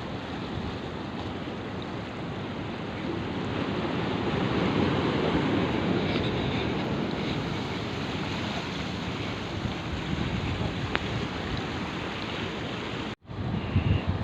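Sea surf washing onto the beach with wind buffeting the microphone, a wave surging louder a few seconds in. The sound cuts out for an instant near the end, then resumes.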